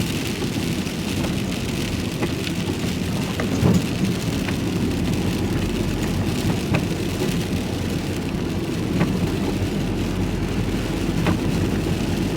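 Inside a moving vehicle's cab in the rain: steady engine and road rumble with rain hissing on the bodywork, and a short tick about every two seconds.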